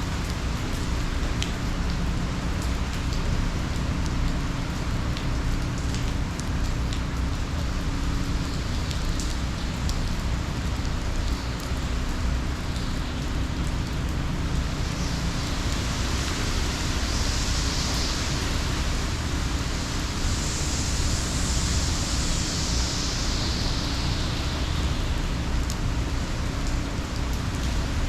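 Heavy hurricane rain pouring steadily, with a low rumble beneath it and scattered drop hits. The hiss swells louder for about ten seconds in the middle.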